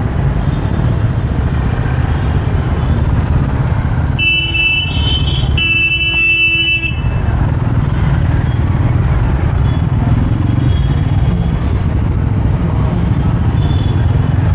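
Motorcycle riding through city traffic: a steady low rumble of engine and wind. A vehicle horn honks twice, about four seconds in and again just before the seven-second mark, the second honk a little longer.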